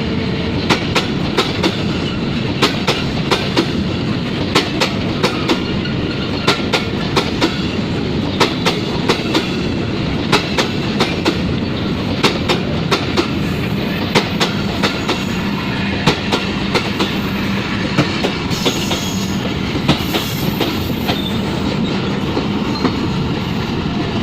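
Freight train of oil tank wagons rolling past at speed: a steady rumble with a regular clickety-clack of wheels over rail joints, a few clicks every second. Faint high wheel squeal joins in about halfway through.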